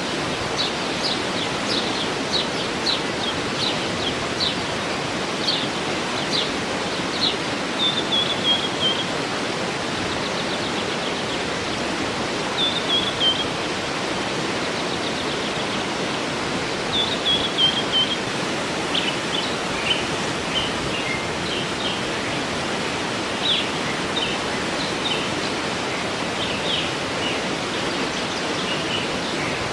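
Waterfall rushing steadily, with birds singing over it in series of short high chirps and a few quick falling trills.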